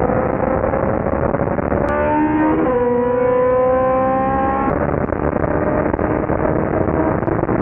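All-motor K-series four-cylinder engine in a Honda EG Civic under full-throttle acceleration during a street race, heard from inside the car. Its pitch climbs through each gear and falls back at upshifts about two and five seconds in.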